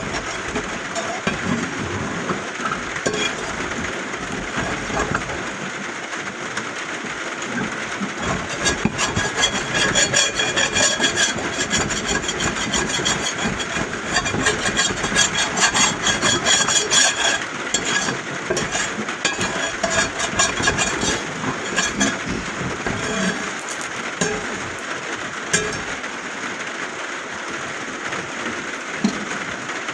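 Eggs frying in a cast iron pan over a gas camp stove: steady sizzling and crackling that grows busier from about a third of the way in to just past the middle.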